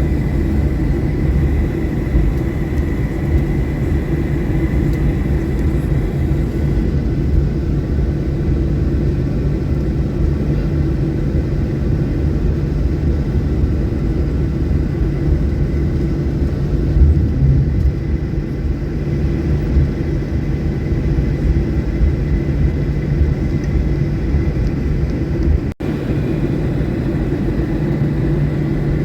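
Steady low cabin rumble inside a Boeing 737-800, its CFM56 engines running at low power as the airliner rolls on the ground after landing, with a faint steady whine running under it. The sound cuts out for an instant about 26 seconds in.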